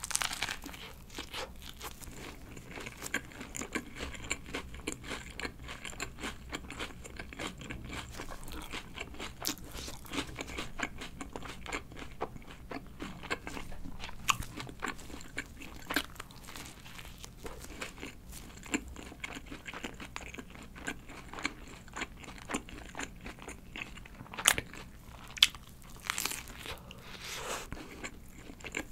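Close-up eating sounds: biting into and chewing a burger (McDonald's Lucky Burger Red), many small moist crackles and clicks of chewing with a few sharper bites now and then.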